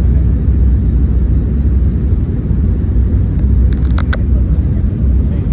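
Airbus A321neo passenger-cabin noise on the approach to landing: a loud, steady low rumble of engines and airflow, with a brief cluster of faint clicks about four seconds in.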